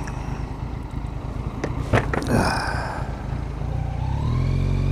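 Motorcycle engine running on the move, with a low steady rumble; about four seconds in the engine note rises and strengthens as the bike accelerates.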